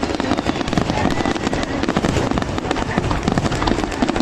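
Aerial fireworks going off in a dense barrage: many quick crackling bursts and bangs overlapping without a pause.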